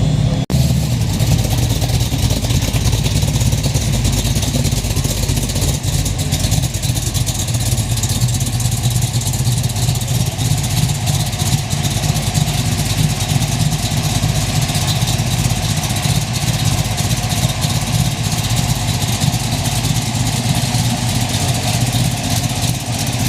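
Car engine idling steadily with a low, continuous rumble.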